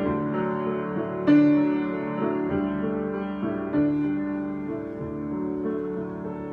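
Solo piano improvisation: a chord struck about a second in and another near four seconds, each ringing on and slowly dying away, with softer notes in between.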